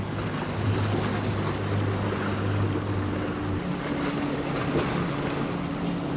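Boat engines running in an inlet, with a steady low hum that drops away a little past halfway while a higher hum carries on. Surf and wind noise on the microphone run underneath.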